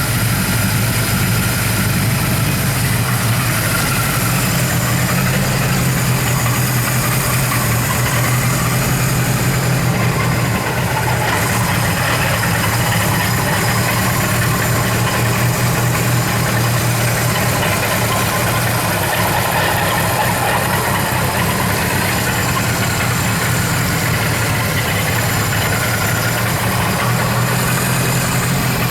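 Kawasaki Z1000 motorcycle's inline-four engine idling steadily after a start-up check.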